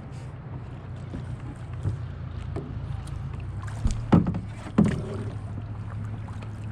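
Kayak paddling on a lake: paddle blades dipping and splashing in the water over a steady low rumble, with two louder strokes a little past halfway, less than a second apart.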